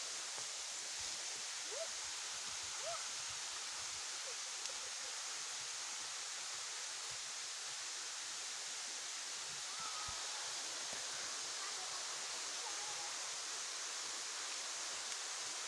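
Steady outdoor rushing hiss of natural ambience, with a few faint, short rising chirps about two and three seconds in and again near the middle.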